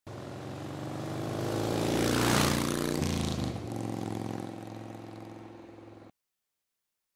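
A car driving past: its engine sound swells to a peak about two and a half seconds in, drops in pitch as it goes by, then fades and cuts off suddenly.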